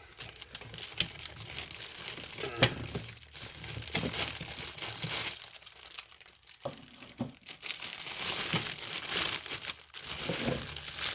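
Packaging crumpling and crinkling as a lantern is unwrapped and lifted out of its box. The handling comes in irregular crackly spells, with a short lull about halfway through.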